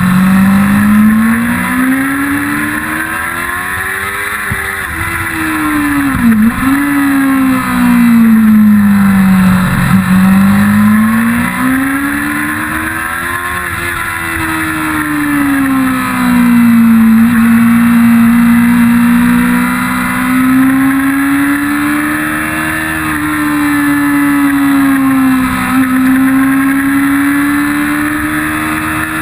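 1999 Yamaha YZF-R6's 600 cc inline-four engine at racing speed, its pitch climbing and falling as it accelerates and brakes through the corners. Short sharp breaks in the note at gear changes, with a steadier stretch in the middle.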